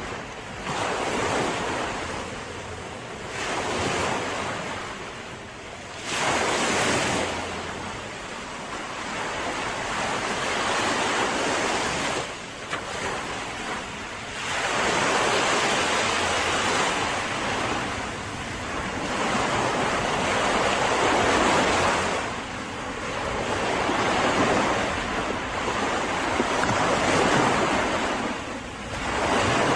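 Mediterranean sea waves breaking and washing up a beach, the surf swelling and falling back every few seconds.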